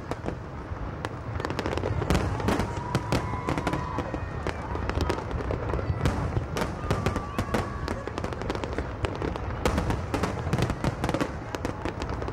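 Aerial fireworks shells bursting in rapid succession: a dense, unbroken run of booms and sharp crackling over a continuous low rumble.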